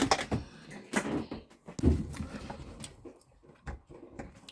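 A few sharp knocks and clatters of things being handled, with quieter rustling between them.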